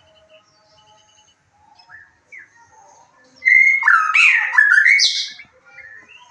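White-rumped shama (murai batu) singing: faint twittering notes, then about three and a half seconds in a loud two-second phrase of gliding whistled notes mixed with quick chatter.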